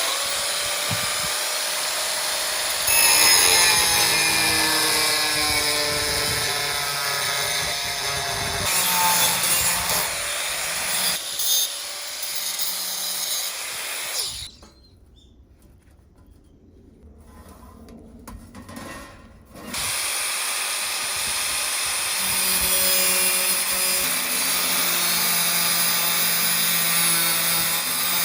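Power tool running in several long runs, its pitch shifting as it works, with a much quieter stretch of about five seconds past the middle.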